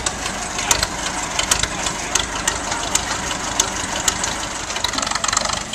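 Old United motor grader's engine running steadily, with sharp clicks scattered through it.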